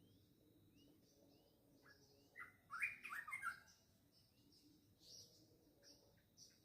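Birds chirping: a quick run of loud chirps near the middle, over fainter bird calls farther off.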